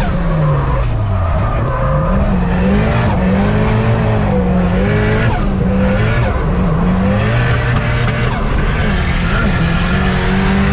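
Turbocharged Nissan CA18 four-cylinder engine revving hard during drifting, its pitch dropping and climbing again several times as the throttle is worked, with tyres skidding.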